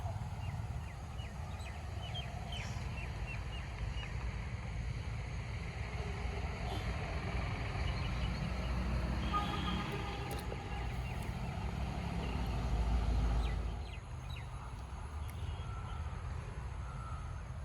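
Outdoor background: a steady low rumble, swelling about two-thirds of the way through and then easing, with scattered short bird-like calls above it.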